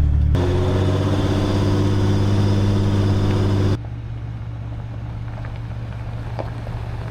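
Diesel Jeep Gladiator engine running at a steady pitch with a deep hum. About four seconds in, it cuts abruptly to a quieter, steady low drone with a few faint light ticks.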